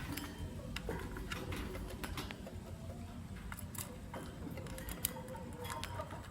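Lovebirds moving about in a cage, making irregular light clicks and taps.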